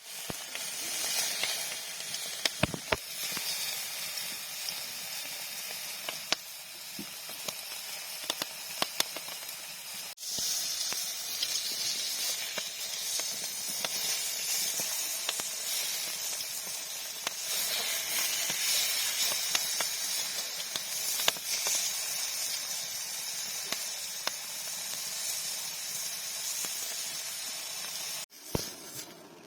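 A large cut of beef sizzling on a grill over a fire: a steady hiss with frequent small pops and crackles of spitting fat. It breaks off abruptly twice, about ten seconds in and near the end.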